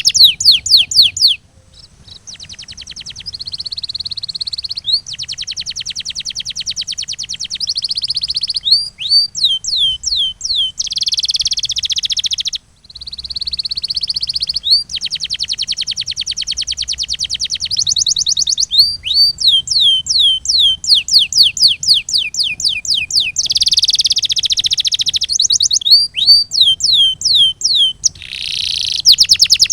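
Canary singing: long rolls of fast, evenly repeated notes alternating with runs of separate downward-sweeping whistled notes, the song breaking off briefly twice.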